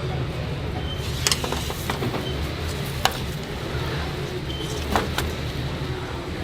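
A steady low hum with about four sharp knocks scattered through it and a few faint short high beeps.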